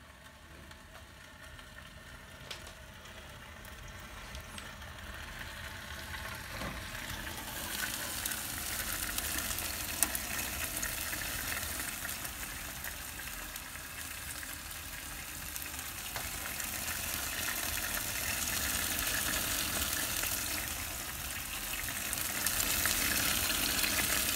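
Saffron milk cap mushrooms sizzling as they cook on a wood-burning fireplace stove, the sizzle building up gradually from faint and swelling again toward the end, with one sharp click about ten seconds in.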